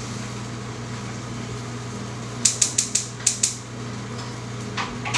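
Steady hum with a quick run of about six sharp clicks about two and a half seconds in, then a couple of softer knocks near the end.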